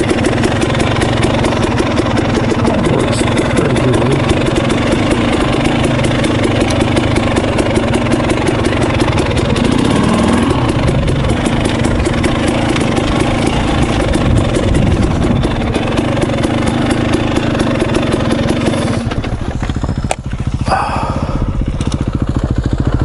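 KTM 300 XC two-stroke dirt bike engine running steadily under way. About nineteen seconds in the engine note drops off, then picks up again near the end.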